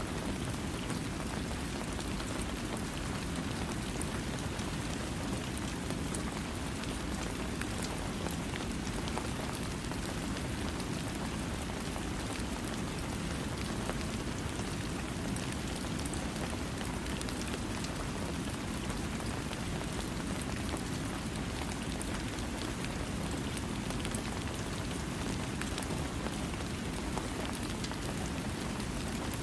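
Steady rain falling, an even hiss with scattered drop ticks, its weight low and full, with no thunder.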